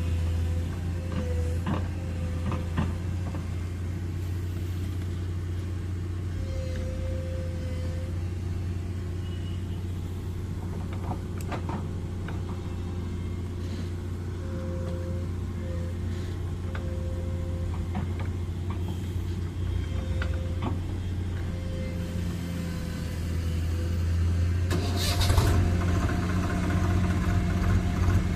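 Tractor engine running steadily with scattered clicks and rattles, getting louder near the end.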